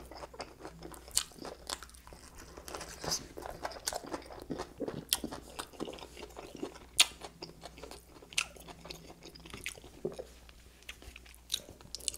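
A person chewing and crunching food close to the microphone, with irregular crisp crunches and mouth clicks; the sharpest crunch comes about seven seconds in.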